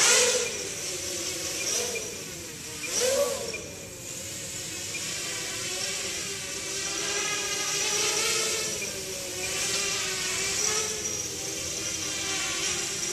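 Small quadcopter's brushless motors and propellers whining, the pitch rising and falling with the throttle. There are sharp punches of throttle at the start and about three seconds in.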